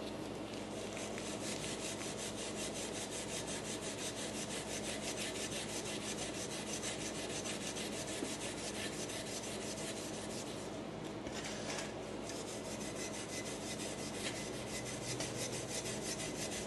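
Brillo pad (soapy steel wool) soaked in Coca-Cola scrubbing pitted old chrome trim in rapid, even back-and-forth strokes.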